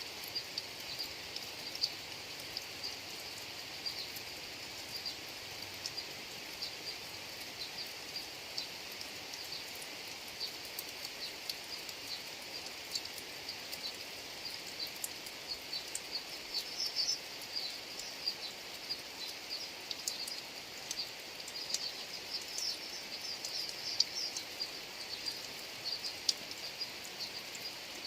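Steady rain falling on a rice field, with scattered sharp ticks of individual drops. A dense chorus of short, high-pitched animal chirps runs over it and grows busier about halfway through.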